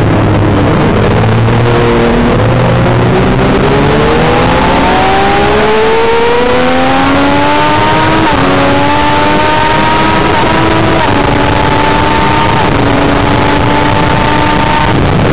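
Triumph Daytona 675's inline three-cylinder engine under hard acceleration out of a corner: its pitch climbs for several seconds, then several quick upshifts follow, each a brief drop in pitch. Heavy wind and road rush on the bike-mounted microphone runs underneath.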